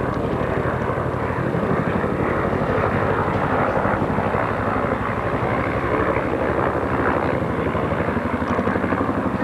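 Helicopter flying close by, its rotor beating in a fast, steady pulse over a loud engine and rotor noise.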